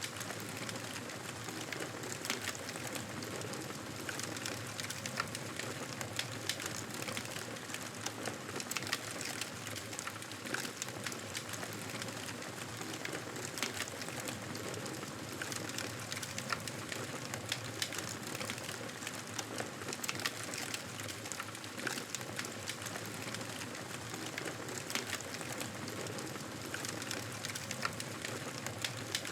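Wood fire crackling in a fireplace: a steady hiss with many small irregular pops and snaps.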